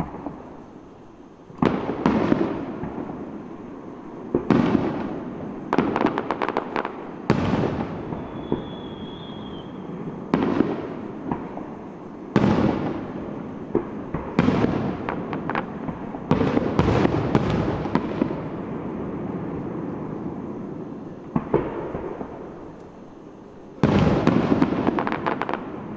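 Aerial firework shells bursting one after another, a sharp bang every second or two, each trailing off in a rumbling echo, with some clusters of rapid crackling.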